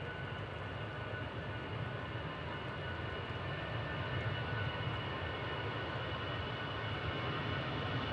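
Jet airliner engines running: a steady low rumble with a thin high whine on top, slowly growing louder.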